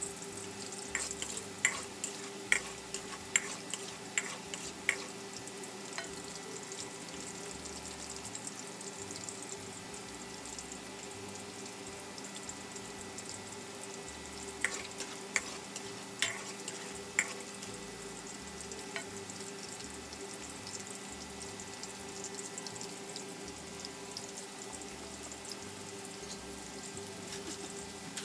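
Eggplant pieces frying in hot oil, a steady sizzle with a low hum underneath. Sharp clicks come in two short clusters, once near the start and again about halfway through.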